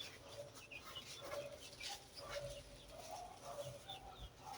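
Flock of seven-week-old layer pullets making soft, short clucking calls, with scattered high chirps, faint throughout.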